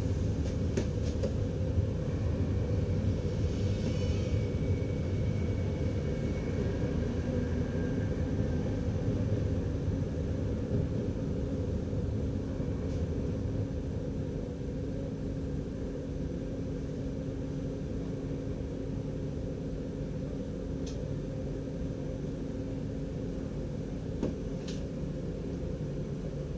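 Steady rumble of a Dutch Railways DDZ double-deck electric train running along the track, heard from inside the driver's cab, with a low steady hum underneath. A faint whine comes a few seconds in, the rumble eases a little about halfway, and a couple of faint clicks come near the end.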